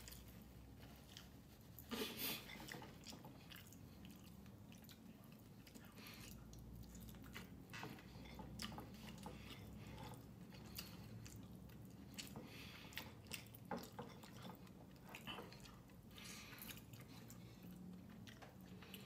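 Quiet close-up chewing and mouth smacks of someone eating chicken adobo and rice by hand, with scattered small clicks; the loudest cluster comes about two seconds in.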